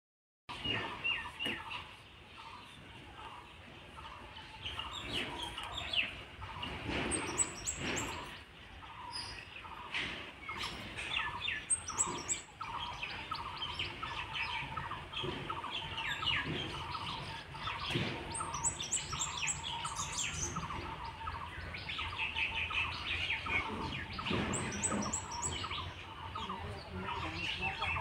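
Birds chirping and calling continuously: many short chirps overlapping, with quick runs of high, thin notes every few seconds.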